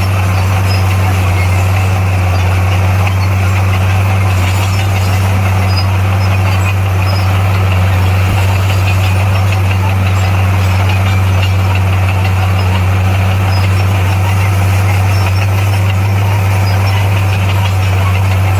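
Heavy-equipment diesel engine running at a steady speed with a deep, even drone.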